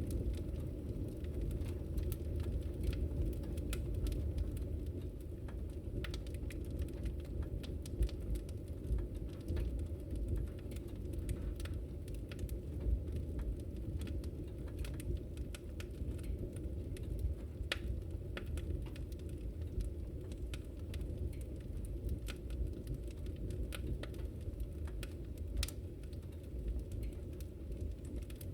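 Wood fire crackling in a fireplace: irregular sharp pops and snaps scattered over a steady low rumble of burning flames.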